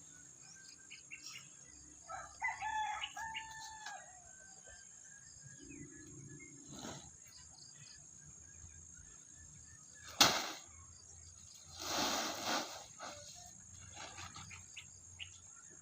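A rooster crowing once, about two seconds in, a drawn-out call that steps in pitch. Near the middle comes a sharp knock, the loudest sound, and soon after a short rustling burst.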